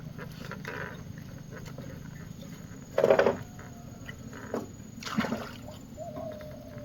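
Water splashing and sloshing, with two louder splashes about two seconds apart and a smaller one between them.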